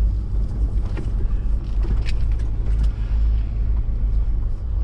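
A car driving: a steady low engine and road rumble, with a few faint clicks.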